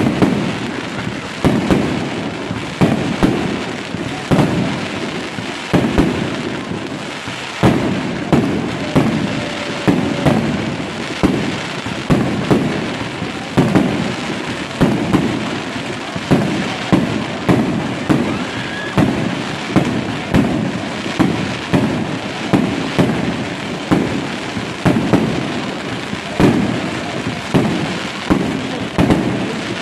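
Fireworks display: aerial shells bursting in a steady run of loud bangs, about one or two a second, with crackling between the bursts.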